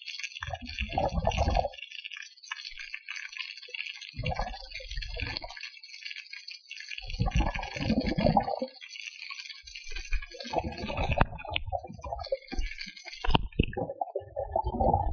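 Water noise: a steady hiss with a muffled rushing surge every few seconds, five times in all. The hiss stops near the end.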